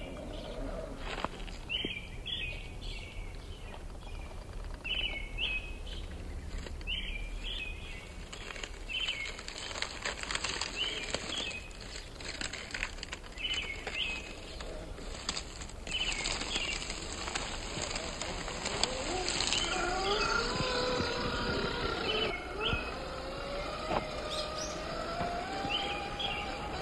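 A songbird calls over and over in short chirps, about one call every second or two, against outdoor background noise. About two-thirds of the way through, a whine joins in and slowly rises in pitch.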